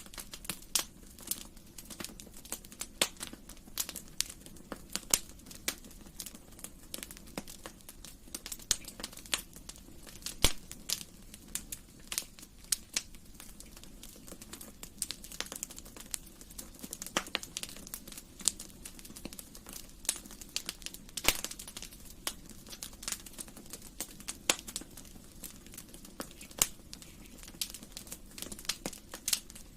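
Wood fire crackling in a fireplace: irregular sharp snaps and pops over a low steady hiss, with a few louder pops.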